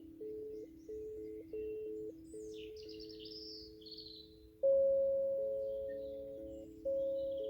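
Sound-bath instruments. Held tones step from pitch to pitch, then a singing bowl is struck about halfway through and rings out, fading slowly, and is struck again near the end. Birds chirp in the background.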